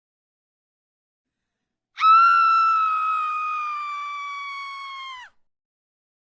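A single high-pitched scream, held for about three seconds and sinking slightly in pitch before it cuts off, after about two seconds of silence.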